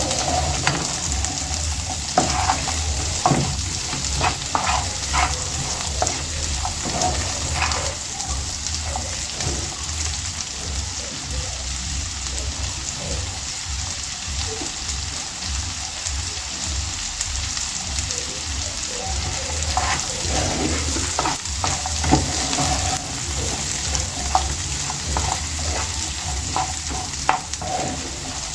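Mixed vegetables sizzling in melted butter in a pan as they are stirred and tossed, with scattered knocks of the stirring utensil against the pan, a cluster early on and another about twenty seconds in.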